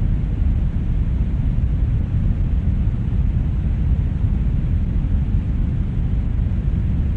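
Steady brown noise: an even, deep rumbling hiss, strongest in the bass and thinning toward the treble, with no changes.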